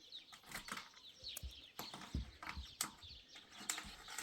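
Scattered knocks and low thuds, with small birds chirping.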